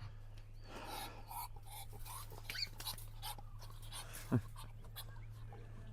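Faint farm animal noises under a steady low hum, with one short call sliding sharply down in pitch about four seconds in.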